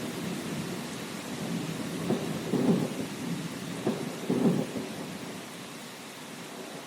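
Thunder rumbling over steady rain. The rumble swells several times in the middle and dies away near the end, leaving the rain.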